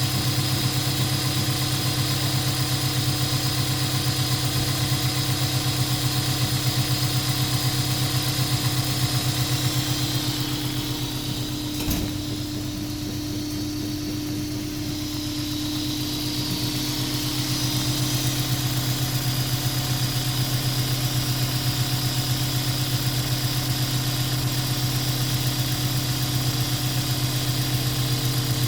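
Honda S2000 AP1's 2.0-litre F20C four-cylinder engine idling steadily, with a single click about twelve seconds in and the sound a little quieter for a few seconds around the middle.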